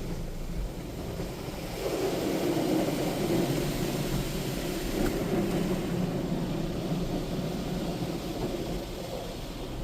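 Automatic tunnel car wash working over the car, heard from inside the cabin: a steady rushing and rumbling of water and wash equipment that swells about two seconds in.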